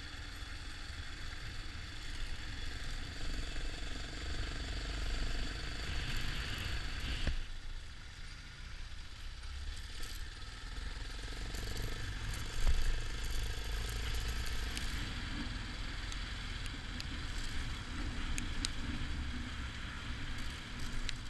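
Yamaha XT 600 single-cylinder motorcycle running under way, with a heavy wind rumble and rattles over the engine. There is one louder knock a little past the middle.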